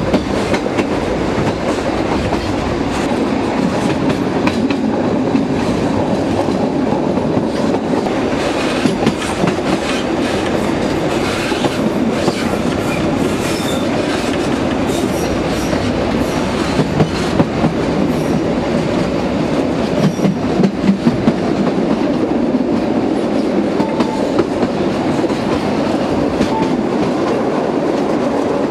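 Narrow-gauge (760 mm) train running along the track: a steady rolling rumble with irregular clicks and clacks of the wheels over the rails, and a few louder knocks about two-thirds of the way through.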